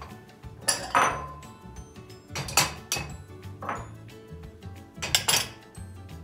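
Ceramic bowls clinking against the dishwasher's wire upper rack and each other as they are loaded, several sharp clinks with short ringing. Quiet background music runs underneath.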